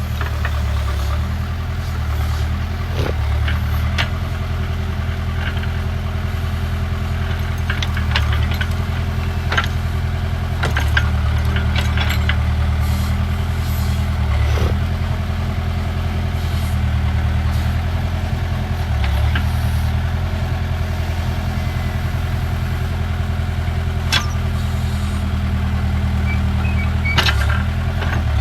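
Backhoe loader's diesel engine running steadily, its note dipping briefly a few times, with scattered knocks and clanks.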